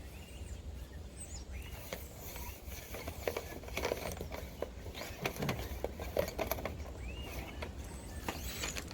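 Birds chirping repeatedly over a low, steady wind rumble, with a run of light knocks and rattles in the middle from the cleaning rods and brush being handled.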